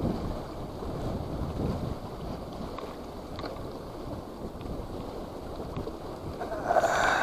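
Strong wind buffeting the microphone with a steady low rumble, and a louder noisy burst near the end.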